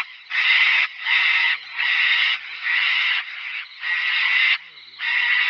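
Sulphur-crested cockatoo screeching: a run of about six loud, harsh, raspy screeches, each lasting most of a second, following one another with short gaps.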